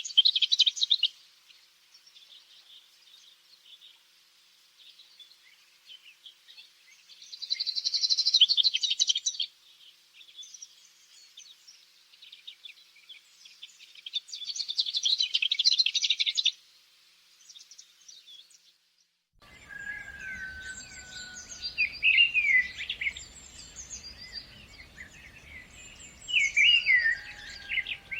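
Birdsong: a bird repeats a high, rapid trilling phrase of about two seconds roughly every seven seconds. About two-thirds of the way through, it gives way to a busier mix of several birds chirping and whistling over a steady background hiss.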